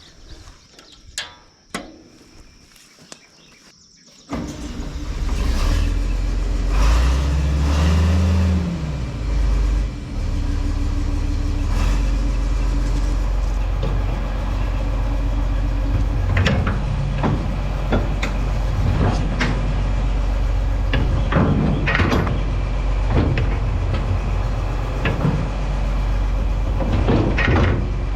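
Tractor engine starting about four seconds in, revving up and back down, then running steadily. Scattered clanks and knocks come through while the hydraulics work the mower-conditioner's rebuilt lift cylinder for a leak test.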